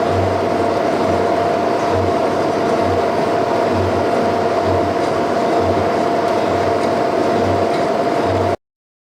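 Boring bar rig running and cutting a bore: a steady machine whine with a low thump about once a second. It cuts off suddenly near the end.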